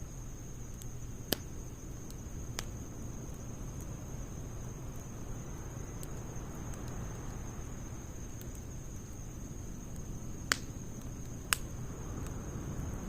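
Wood fire of logs and pine needles burning with a steady low rush, broken by four sharp crackling pops, two in the first three seconds and two near the end. A steady high insect trill runs underneath.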